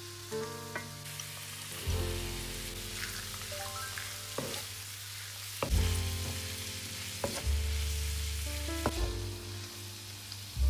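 Food sizzling as it fries in a pan, with a few sharp knocks, under background music of short stepping notes over a deep bass line.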